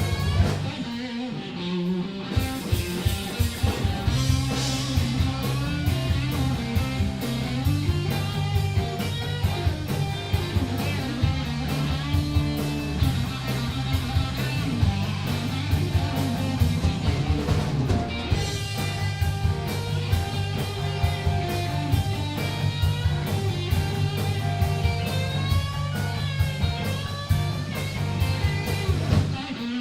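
Southern rock song with electric guitar playing over bass and a steady drum-kit beat.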